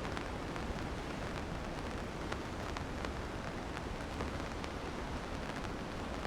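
Steady rain falling, with many scattered sharp ticks of close raindrops striking a surface.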